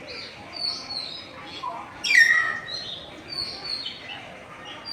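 Common hill mynahs calling: a run of short repeated chirps, with one loud call falling steeply in pitch about two seconds in.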